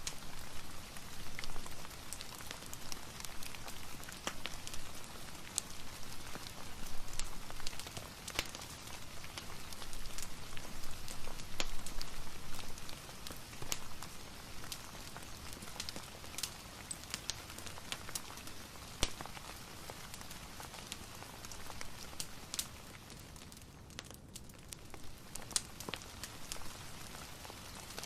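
Steady rain mixed with a crackling wood fire: an even hiss with frequent sharp pops and snaps scattered through it.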